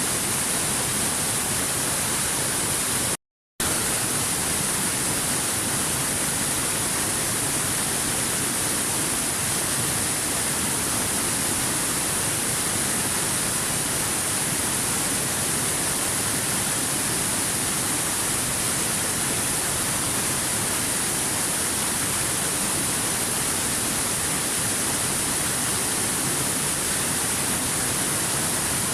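Waterfall: water falling with a steady, even rushing hiss, bright in the treble. The sound cuts out completely for a fraction of a second about three seconds in, then resumes unchanged.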